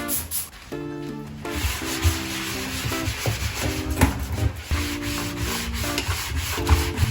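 Repeated rubbing strokes, hand work against a surface, starting about a second and a half in, over soft background music.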